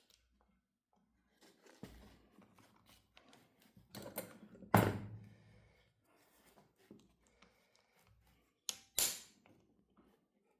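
Hand tools clicking and knocking against a carburetor on a workbench while a stubborn part is worked loose, with one sharp, loud knock about five seconds in and another short burst near the end.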